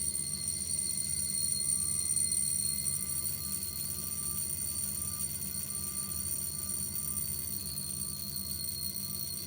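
The mechanical alarm of a Jaeger-LeCoultre Master Compressor Extreme W-Alarm wristwatch ringing steadily and without a break, a crisp, high, not very loud ring. It has been set off by winding the hands to the alarm time.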